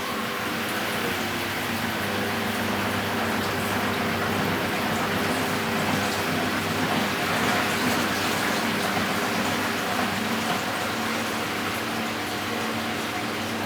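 Philco Bendix W84RX washing machine running, with a steady rush of water over a constant motor hum.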